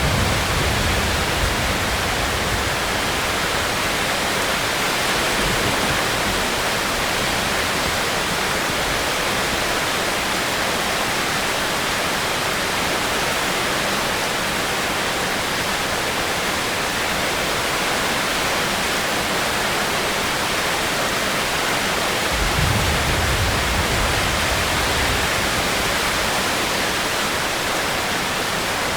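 Steady, dense rain, an even hiss with no breaks. A low rumble swells briefly at the start and again for a few seconds about three-quarters of the way through.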